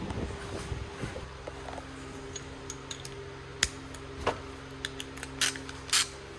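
Small clicks and clinks of hand tools and metal parts being handled during work on motorcycle forks, over a steady low hum. There are two short, louder noisy sounds near the end.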